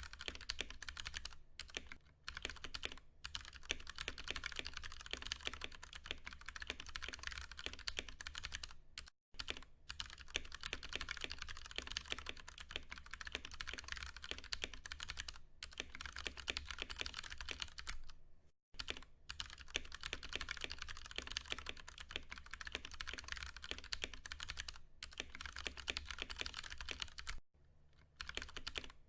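Steady, fast typing on a Ducky One 2 Mini mechanical keyboard with tactile Cherry MX Brown switches, keystrokes clattering in quick succession. There are brief breaks about 9 and 18 seconds in and a longer one near the end.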